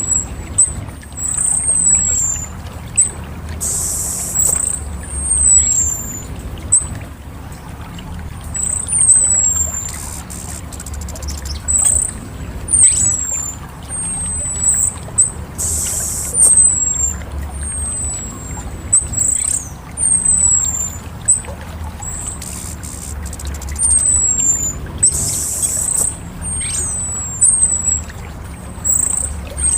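Orange-headed thrush calling: short, thin, very high whistled notes that slide downward, one or two a second. A harsh hiss comes every several seconds, over a steady low rumble.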